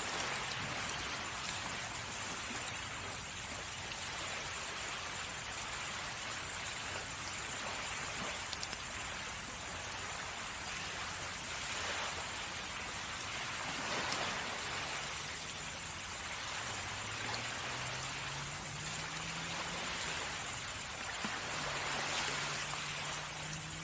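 Sea waves washing steadily on the shore, swelling now and then. A faint low hum rises slowly in pitch in the second half.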